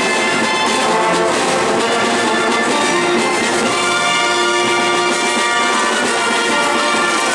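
Marinera music played by a brass band, trumpets and trombones carrying the tune at a steady level.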